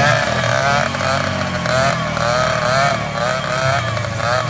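Dirt bike engine revving, its pitch rising and falling over and over as the rider works the throttle without shifting up out of a low gear.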